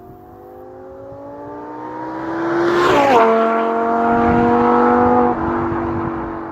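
Lamborghini Huracan LP610-4's naturally aspirated V10 accelerating, its note climbing and getting louder. About three seconds in, at its loudest, the pitch drops sharply as the car goes by. It steps down again about five seconds in and fades away.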